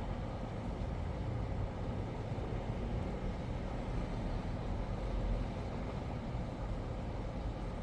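Steady low rumble of background noise with no distinct events and no cicada song.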